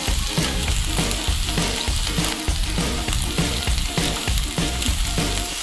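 Chopped vegetables (onion, carrot, capsicum) sizzling in hot oil in a nonstick kadai, a steady crackling hiss.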